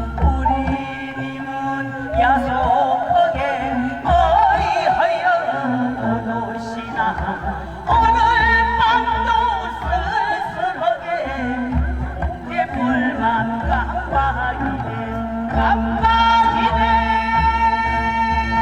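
A female voice sings a Korean Namdo folk song (minyo) with heavy, wavering vibrato over a backing track with a low, pulsing bass. Near the end she holds one long note.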